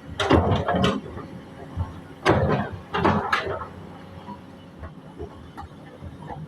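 Excavator's diesel engine running steadily, with three bouts of loud scraping and clattering as its bucket scrapes earth off the road.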